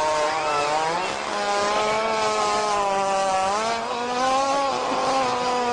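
A long, drawn-out animal fart: a loud, continuous buzzing note that wavers and shifts pitch a few times.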